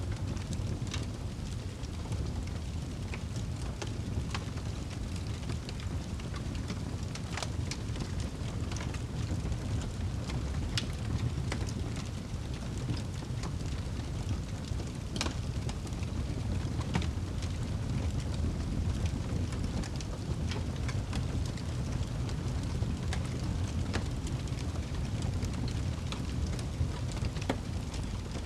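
Fire crackling in a fireplace: a steady low rumble of flames with irregular sharp pops and snaps scattered through it.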